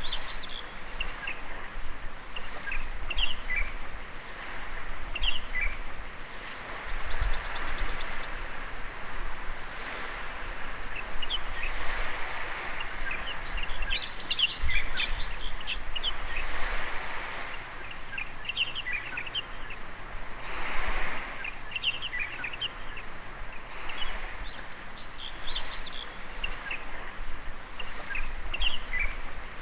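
Gentle waves washing on a sandy beach in slow swells, with birds chirping over them throughout and a quick run of high repeated notes about seven seconds in.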